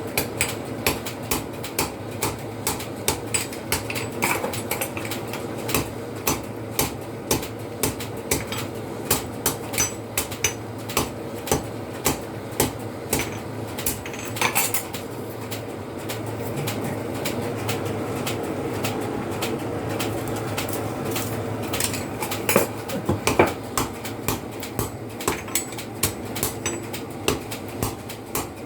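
Blacksmith's hammer striking steel on an anvil, sharp metallic blows about two a second over a steady hum. The strikes pause for several seconds in the second half, then resume.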